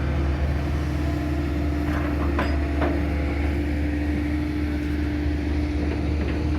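Hydraulic excavator's diesel engine running steadily, with a few light knocks about two to three seconds in.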